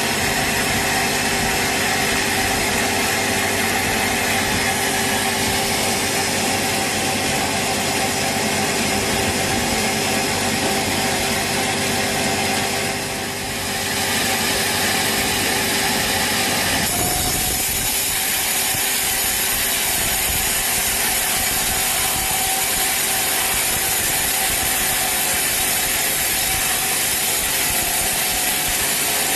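Sawmill saw cutting a large teak log: steady, loud machine noise with a few held tones. It dips briefly about halfway through, then turns hissier.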